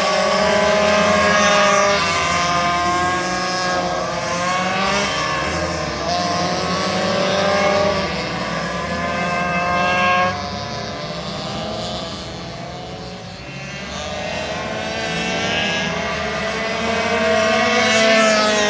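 Several racing minibike engines running at high revs together, their pitches rising and falling as they accelerate and pass. The sound drops off suddenly a little past halfway, then builds again near the end as the bikes come back.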